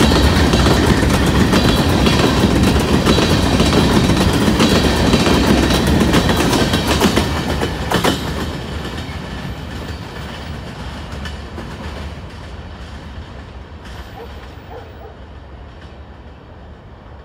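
Freight train's cars rolling past with the rumble and clatter of steel wheels over the rails. The last car passes about eight seconds in with a final sharp clack, then the sound fades steadily as the train rolls away.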